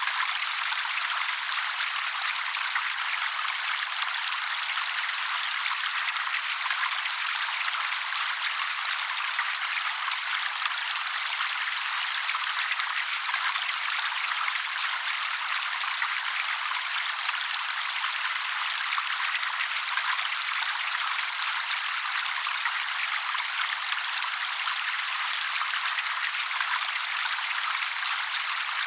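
Steady trickling water, an even thin splashing hiss with no low end and no birdsong over it.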